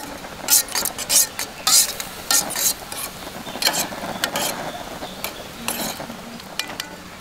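Metal spoon scraping and clinking against a small metal soup pot, stirring soup with irregular quick strokes that are busiest in the first few seconds and then thin out.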